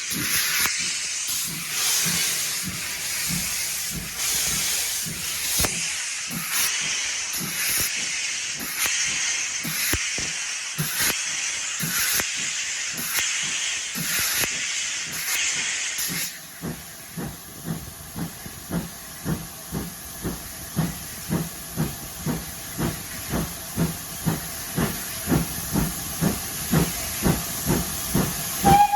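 Steam locomotive working: a loud hiss of steam pulses in time with its beats for about half the time. Then the hiss stops and the exhaust beats go on evenly, growing louder.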